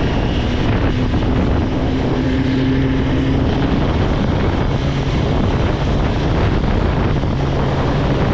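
Kawasaki ZX-10R inline-four engine running at a steady pitch, with wind noise on the microphone.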